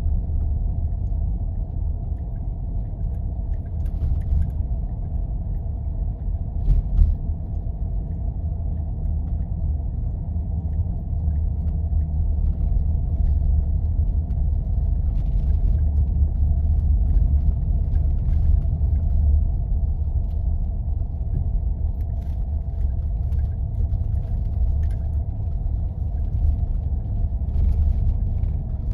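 Steady low rumble of a Jeep driving on snow-covered roads: engine and tyre noise, with a few faint knocks and rattles along the way.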